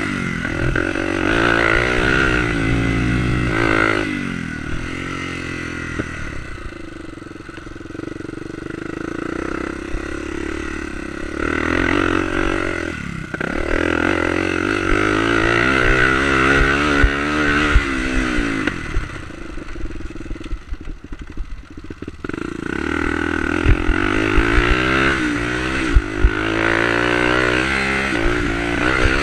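Enduro dirt bike engine revving up and down as it is ridden around a dirt track, the pitch climbing and falling again and again with throttle and gear changes, easing off twice. A few sharp knocks come in the second half.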